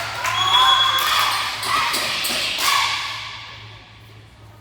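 Many high voices shouting and cheering together in an echoing gym hall, loudest in the first two seconds and dying away over the next two, with a few sharp thuds of a ball.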